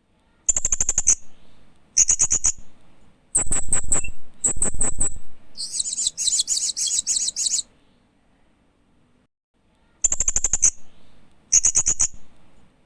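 Hanging parrot (Loriculus) calling: short rattling bursts of sharp, high-pitched chirps, with one longer, denser chatter of about two seconds midway, then a pause of about two seconds before two more bursts.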